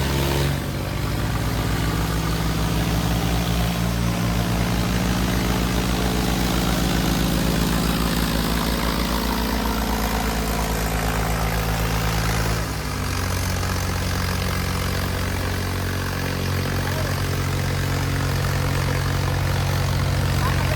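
Tractor diesel engines running hard in a tractor tug-of-war pull, a loud and steady engine note. About 13 seconds in the note drops and changes pitch, then holds steady again.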